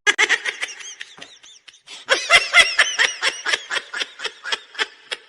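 High-pitched laughter in quick pulses, about five a second, loudest from about two seconds in.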